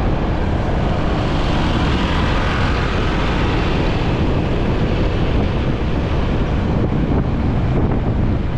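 Wind buffeting the microphone of a moving motorcycle, over steady engine and road noise of traffic, swelling briefly about two to four seconds in.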